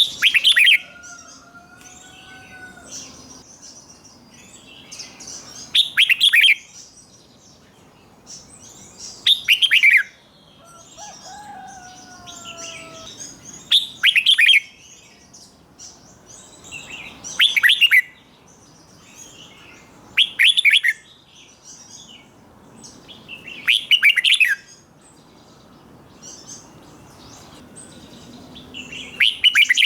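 Red-whiskered bulbul singing its short loud song phrase over and over, about once every three to four seconds, with softer chirps in between.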